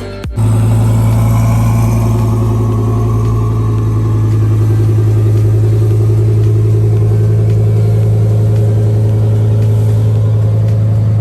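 Turbocharged Honda Del Sol's engine running at a steady cruise on the road, a loud, even drone with a strong low hum, starting about half a second in as music cuts off.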